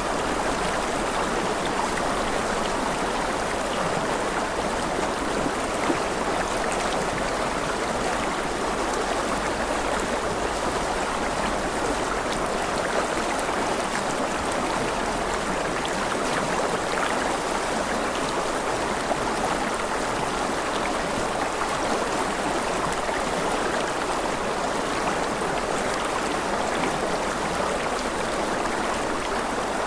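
Flowing stream water, a steady, even rush of running water with no break.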